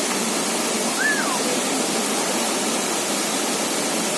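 Waterfall rushing steadily, with a short high call that rises and falls about a second in.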